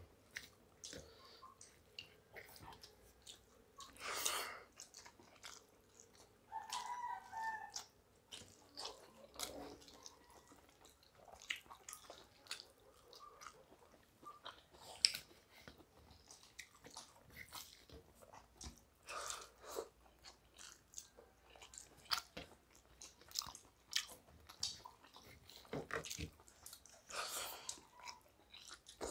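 Faint, irregular chewing and lip-smacking of two people eating rice and chicken curry by hand, with soft wet squishes of rice being worked between the fingers.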